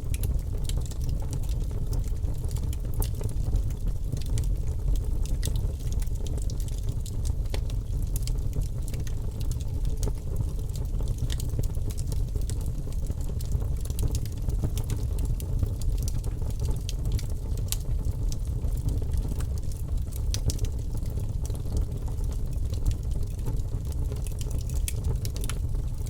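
Wood fire burning in an open fireplace: a steady low rumble of the flames with frequent small crackles and pops from the burning wood.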